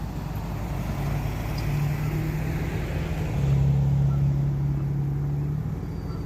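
A motor vehicle's engine running at low speed as a steady low hum, growing louder for about two seconds past the middle and then easing off.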